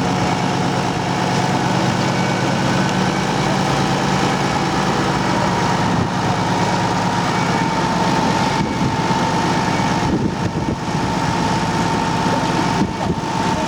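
Large engine idling steadily with a low hum and a faint steady whine, over constant broad noise.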